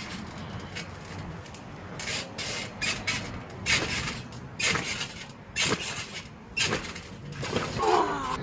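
Trampoline bouncing: the mat and springs are hit about once a second in a run of short noisy thumps, with a brief shout near the end.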